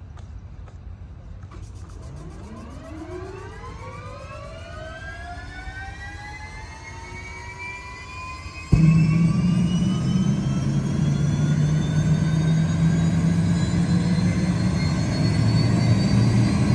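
Helicopter turbine engine starting up: a whine rising steadily in pitch. About halfway through, the sound suddenly gets much louder, with a steady low hum under the whine.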